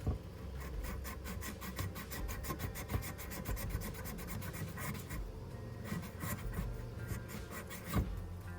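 Brass heater core pipe being scrubbed clean by hand with an abrasive to prepare it for soldering: quick back-and-forth strokes, several a second, that pause about five seconds in and then resume.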